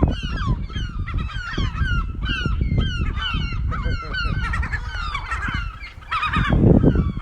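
Gulls calling: a rapid string of short, falling calls, many overlapping, over a low rumble.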